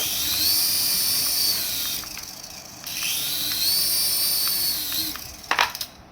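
Small electric motor of a remote-control toy whirring, spun up and let run down twice, each time with a whine that rises and then falls in pitch.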